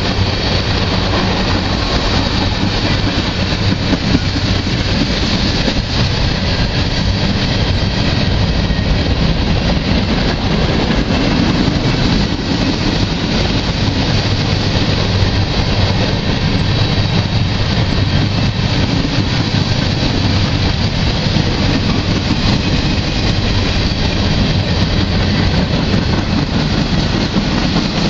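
Freight cars of a slow-moving manifest train rolling past, a steady rumble of steel wheels on the rails.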